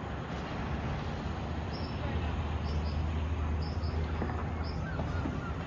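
Outdoor background of a steady low hum, with several short, high chirps from small birds in the second half.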